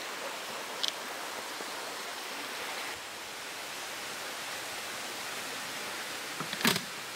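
Steady rain falling, an even hiss. There is a faint click about a second in and a short louder knock near the end.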